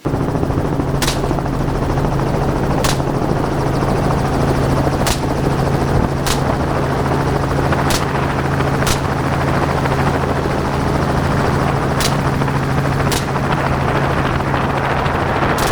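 Helicopter in flight: a steady drone of engine and rotor with a constant low hum. Faint sharp clicks come every second or two.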